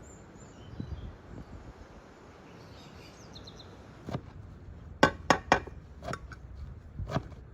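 Birds chirping faintly, then from about four seconds in a series of sharp, irregular knocks and clinks of food preparation, the loudest three close together about five seconds in.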